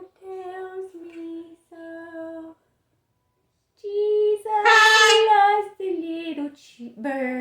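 A woman singing a children's hymn unaccompanied, in short sung phrases. There is a pause of about a second midway, and the loudest held notes come about five seconds in.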